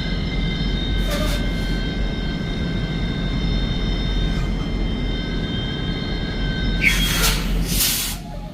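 Semi truck running, a steady engine and road rumble with a few constant tones over it. About seven seconds in, a hiss of air starts in short bursts.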